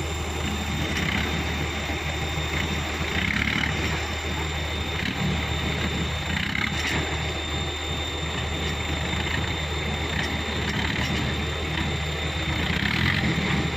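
Diesel engine of an Isuzu Elf dump truck running steadily, a constant low hum.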